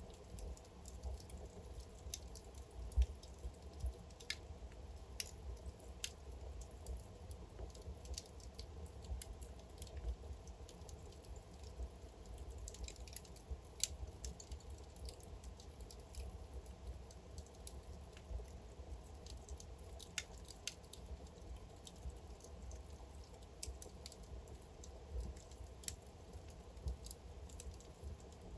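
Logs burning in a fireplace, crackling and popping at irregular intervals over a low, steady rumble of flame.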